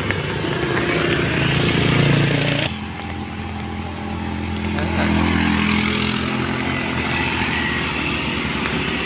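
Vehicle engines running on a road, a steady low drone that changes abruptly about three seconds in and then grows louder about five seconds in as a vehicle comes closer.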